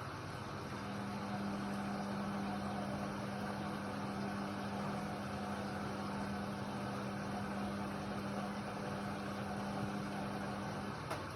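Indesit WIDL 106 washer-dryer running: a steady motor hum over a constant machine noise starts about a second in and stops about ten seconds later, followed by a faint click.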